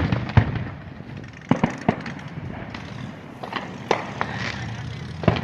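Fireworks going off: a series of sharp, irregularly spaced bangs over a low rumble.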